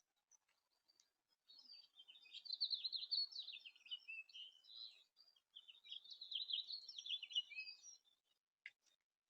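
A songbird sings two long, fast warbling songs in a row, each a few seconds of jumbled high notes, followed by a short sharp note near the end.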